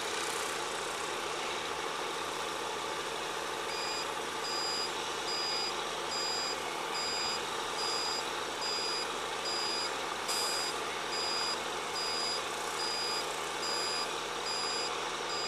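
A truck's backup alarm beeping about once a second, high-pitched, starting about four seconds in, over the steady running of a heavy vehicle's engine.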